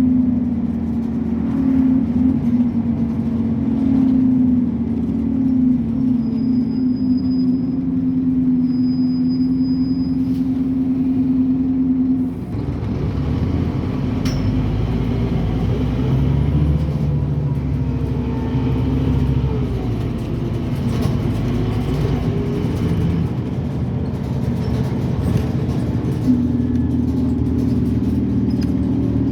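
Scania N270UD OmniCity double-decker bus's five-cylinder diesel engine heard from on board under hard acceleration, a loud steady drone. About twelve seconds in it eases off, then works back up with rising and falling pitch before settling into the steady drone again near the end.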